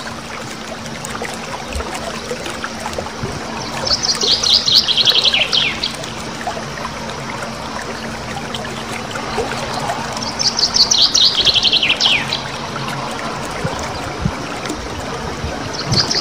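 A small songbird singing rapid rolling trills: each bout is a fast run of high, repeated notes that slides down in pitch at the end. Bouts come twice in full, about six seconds apart, and a third begins near the end.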